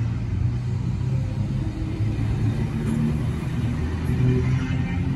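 V set double-deck electric train rolling slowly past along the platform: a steady low rumble of wheels and running gear with a shifting low hum.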